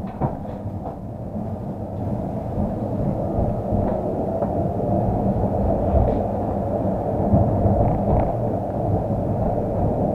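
Tram running along the rails, heard from inside the car: a steady rumble of wheels and running gear that grows louder over the first couple of seconds, with a few faint clicks and knocks.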